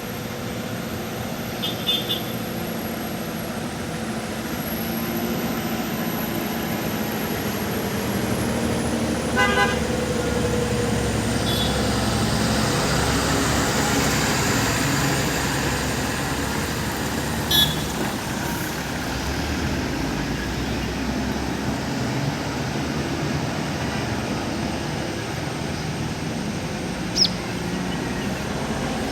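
Heavy road traffic of buses and trucks on a hairpin bend: diesel engines rumbling, swelling louder in the middle as a vehicle passes close. Short horn toots sound three times, about 2, 9 and 17 seconds in.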